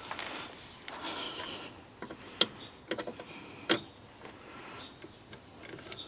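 Scattered sharp clicks and knocks, the loudest about two-thirds of the way in, over a faint hiss.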